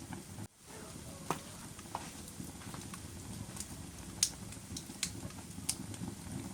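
Wood fire burning in a fireplace: a steady low rumble of flames with scattered sharp crackles and pops, the loudest about four seconds in. The sound cuts out briefly about half a second in.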